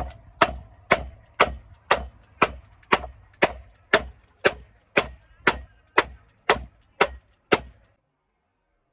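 Firewood being chopped: sharp, steady strikes of a blade into wood, about two a second, that stop abruptly near the end.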